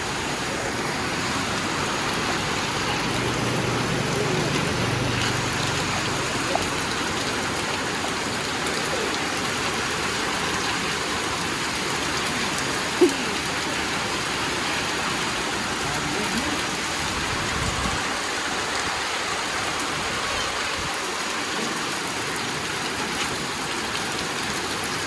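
Steady heavy rain falling, an even hiss of water throughout, with one brief sharp knock about 13 seconds in.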